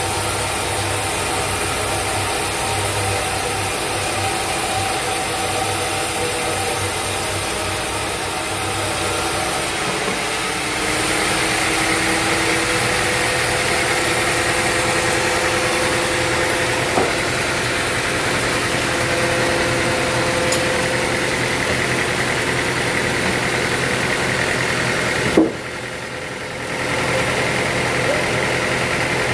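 Sawmill machinery engine running steadily, its tone changing about a third of the way through. A sharp knock sounds near the end, followed by a brief drop in level before the running sound picks up again.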